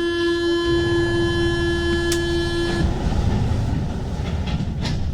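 Paris Métro MP 05 train's door-closing warning buzzer sounding steadily for almost three seconds, then cutting off, over the low rumble of the train.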